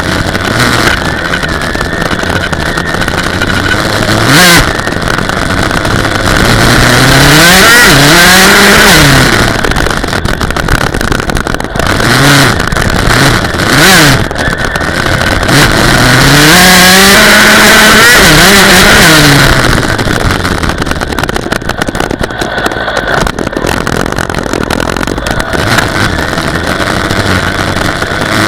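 Dirt bike engine revving up and falling back several times as the throttle opens and closes, with longer pulls about a third and two-thirds of the way through. Loud throughout.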